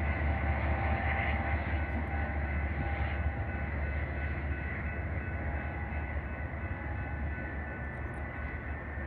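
A Metra commuter train drawing away down the line, its steady rumble with a faint whine slowly fading.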